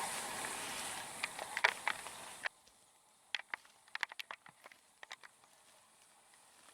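Footsteps on dry ground and debris: a scatter of sharp irregular clicks and crunches. A steady background hiss under the first couple of seconds cuts off abruptly about two and a half seconds in, leaving only the sparse clicks.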